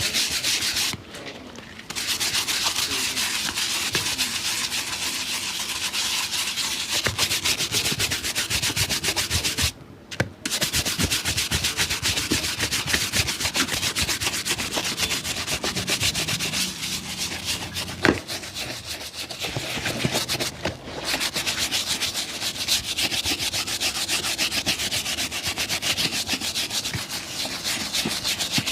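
Fast, continuous scrubbing strokes on a shoe, stopping briefly three times, with a single sharp click about eighteen seconds in.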